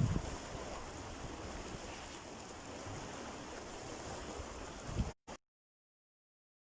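Surf washing on a sandy beach with wind buffeting the microphone in low gusts, the strongest at the start and again about five seconds in; then the sound cuts out abruptly to dead silence.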